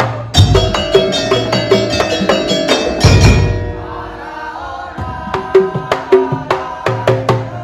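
Madurese daul (tong-tong) percussion ensemble playing a fast rhythm of wooden clacks and drum beats over ringing pitched tones, with a loud crash about three seconds in that dies away before the beat picks up again.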